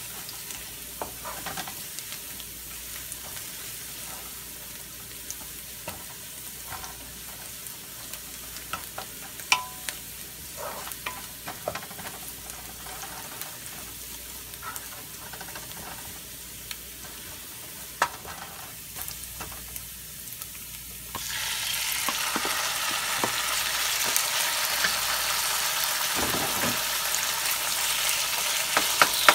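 Minced garlic and chilies sizzling in hot oil in a nonstick pan, stirred and scraped with a wooden spatula in light, scattered clicks. About two-thirds of the way through the sizzle suddenly grows much louder as raw sliced chicken goes into the pan, and keeps frying loudly.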